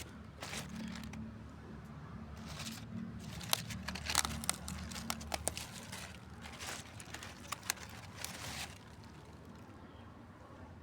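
Vegetable plants being picked by hand: leaves rustling and stems snapping in a run of small crisp crackles and snaps that stops about nine seconds in.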